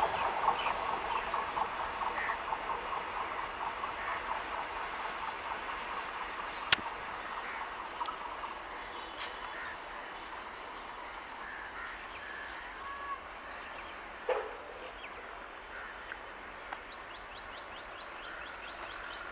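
Freight train wagons' wheels clattering over the rails, the sound fading steadily as the train recedes. Birds chirp now and then, and there is a single sharp click about seven seconds in.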